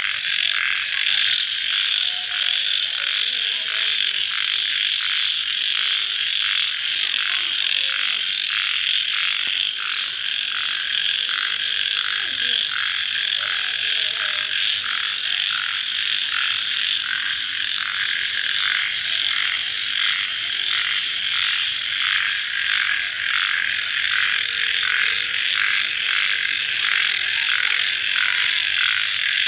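Chorus of many crickets calling at night just after rain: a dense, steady, high trill with a regular pulse.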